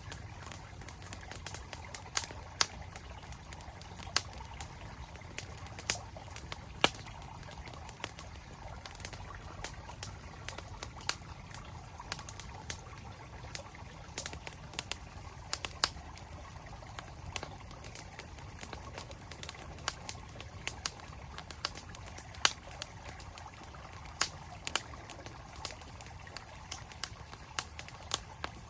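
Wood campfire crackling, with many short, sharp pops at irregular intervals over the steady rush of a flowing stream.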